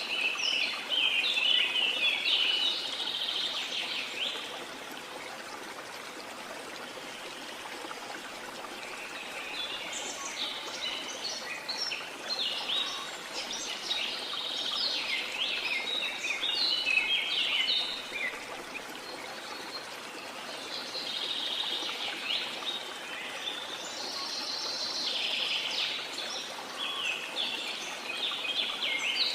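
Rainforest ambience: a steady wash of falling water with birds chirping and twittering in three bouts of quick, busy phrases, with short lulls between them.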